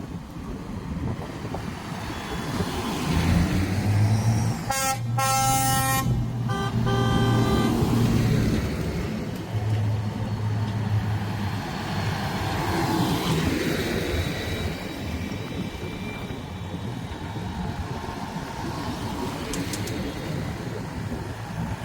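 Vehicle horn sounding a blast of about a second, then a shorter second toot, over a tractor engine running steadily throughout.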